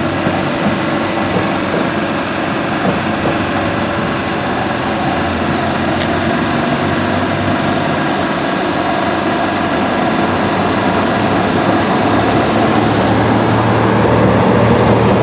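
Tram running, a steady rumble with a low hum that grows stronger and slightly louder over the last few seconds.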